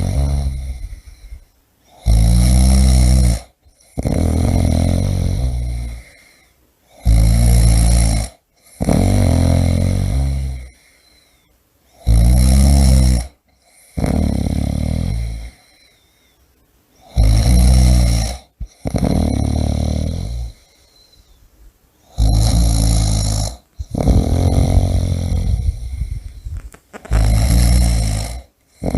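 A person snoring deeply and regularly: a loud, rattling snore, then a softer snore, with a short pause, about one breath every five seconds.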